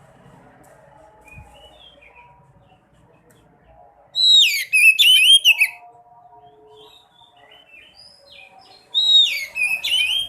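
Sekoci songbird singing in two loud bursts about five seconds apart, each a run of quick falling whistles mixed with high twittering notes.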